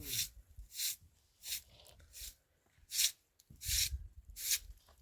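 Footsteps crunching through deep snow at an even walking pace, about seven steps.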